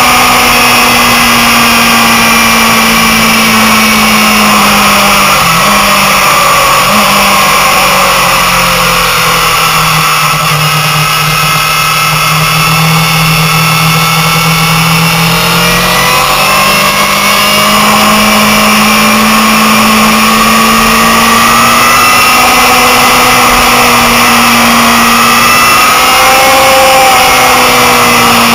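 Motorcycle engine heard onboard at speed, with wind rushing over the microphone. The revs drop about five seconds in and stay lower for several seconds through a bend, then rise again and hold steady on the straight.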